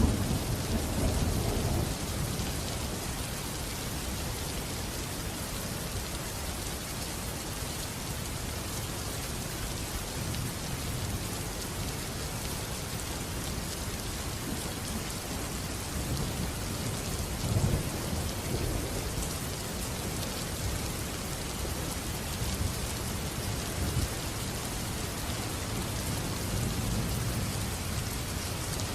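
Steady rain falling, with low rolling thunder: a rumble dying away in the first two seconds and another swelling briefly a little past the middle.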